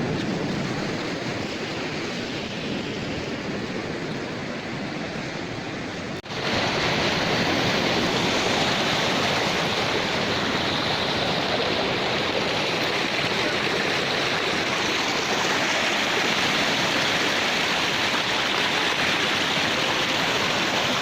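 Steady rush of water. A cut about six seconds in, after which the rush is louder and higher-pitched.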